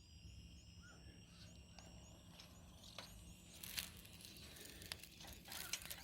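Faint outdoor ambience: a few short chirps, and from a little past halfway, scattered sharp clicks and crackles.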